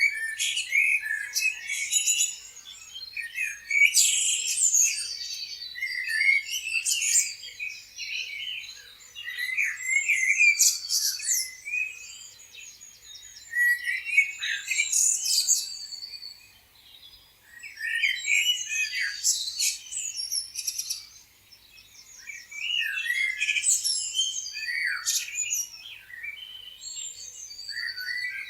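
Several songbirds chirping and singing at once: quick, high, overlapping notes and trills, dropping briefly twice.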